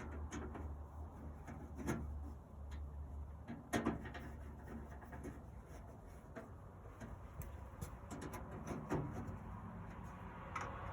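Scattered light clicks and knocks of screws and metal smoker parts being handled and tightened, over a steady low hum.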